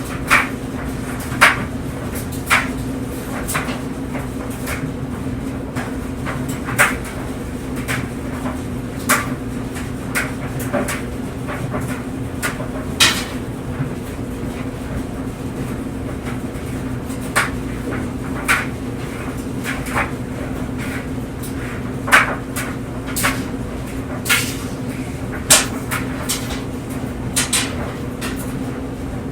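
Clothes dryer running with clothes tumbling in the drum: a steady low hum with irregular knocks and clicks, roughly one every second or two.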